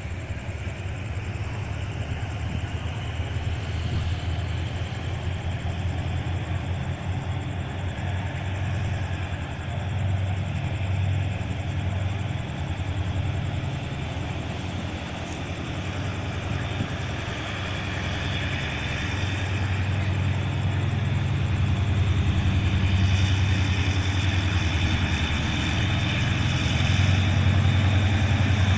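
Diesel locomotive engine running with a steady low rumble, growing gradually louder.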